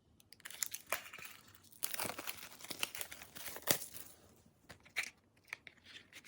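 Plastic packaging wrappers being torn open and crinkled by hand, with a run of crackling and sharp clicks that thins out after about four seconds.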